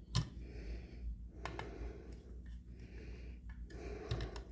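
Light clicks and knocks of metal hand-plane parts being handled and tightened down during reassembly, a few separate taps over quiet rustling.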